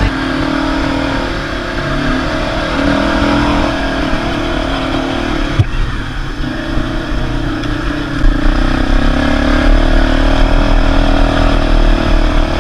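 ATV (quad bike) engine running under way, its pitch rising and falling gently with the throttle. A sharp knock sounds once about six seconds in, and the low rumble grows heavier near the end.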